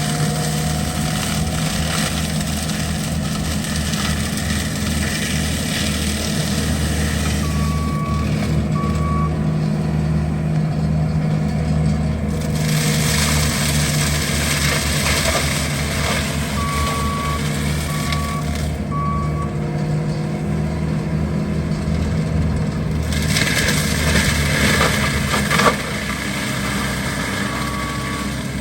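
Skid steer's engine running steadily, with a hiss that swells and fades as it works. Its reversing alarm beeps three times, in short runs of two or three beeps.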